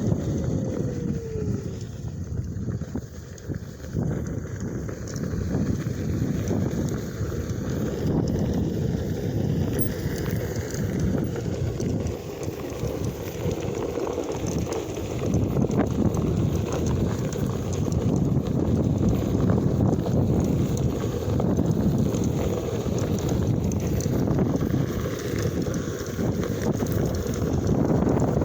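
Wind buffeting the microphone and the rumble of a Onewheel's tyre on a dirt trail while riding, a steady rough noise with small clicks and knocks from the ground.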